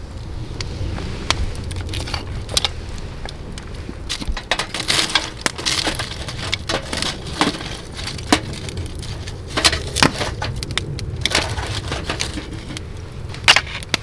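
Firewood cracking and splitting: irregular sharp snaps and crunches, a cluster of scraping crunches in the middle, over a steady low rumble.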